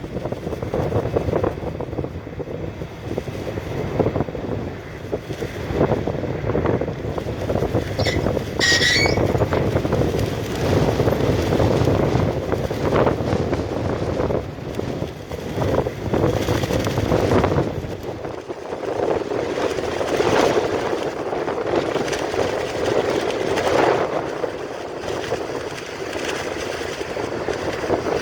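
Heavy diesel truck running steadily, with a brief high squeal about eight seconds in; the deep low rumble drops away around eighteen seconds.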